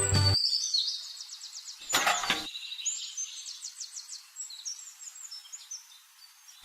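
Birds chirping, a run of quick high trills and chirps, with a short rustling thump about two seconds in.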